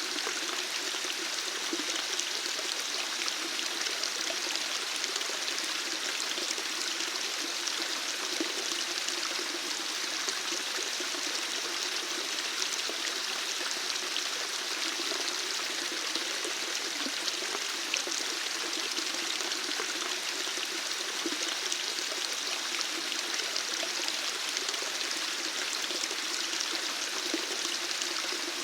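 Running water flowing steadily, an even, unbroken rushing with no pauses or changes.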